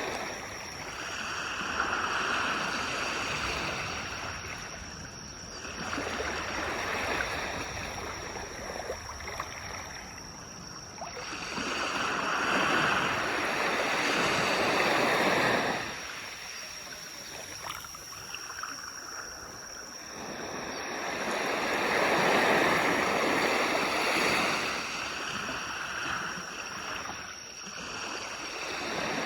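Waves washing in on a beach, each one swelling up and fading away again every few seconds, one wash cutting off fairly sharply about halfway through.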